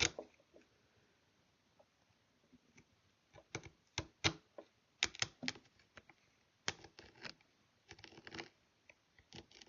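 Small hand blade cutting and slicing into a wooden rifle stock to inlet a ramrod thimble: irregular short sharp clicks and scrapes in small clusters, the loudest a sharp click at the very start.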